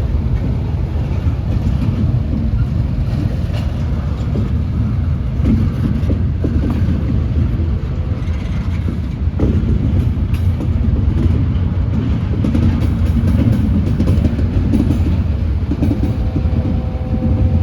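Freight train rolling past: a steady, loud, low rumble with scattered clicks and clanks of wheels and cars. A steady tone joins in near the end.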